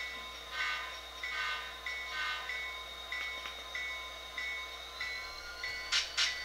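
Recorded locomotive bell from an HO-scale GP40-2's SoundTraxx Tsunami2 sound decoder, ringing steadily at about one and a half strikes a second. A rising whine starts about five seconds in, and two sharp clicks come near the end.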